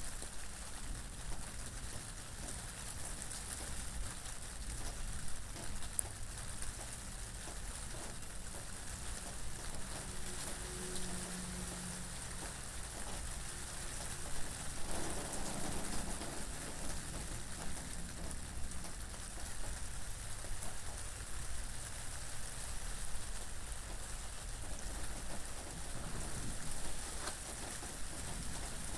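Steady rain falling on a surface, with a low rumble of wind beneath it.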